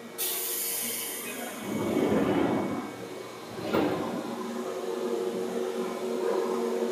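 Seibu 2000 series electric train car: a sudden hiss of compressed air that fades over a second or so, a rumble, then a sharp thump about four seconds in, followed by the steady hum of the car's on-board equipment.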